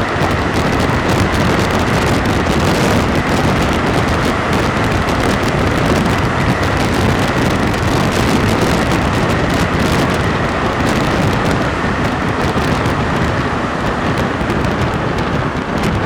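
Santiago Metro NS-88 rubber-tyred train running at speed through the tunnel: a steady, loud rush of rolling and air noise with a faint steady high whine and scattered light clicks.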